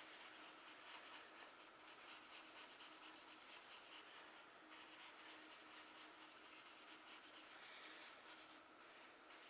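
Faint, steady scratching of a charcoal stick rubbed across textured drawing paper as clouds are shaded in.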